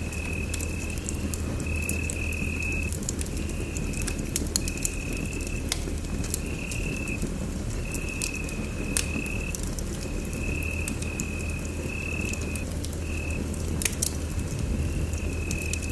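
Wood fire crackling in a fireplace, with sharp pops scattered through over a low steady rumble. A high-pitched trill repeats in short pulses every second or so.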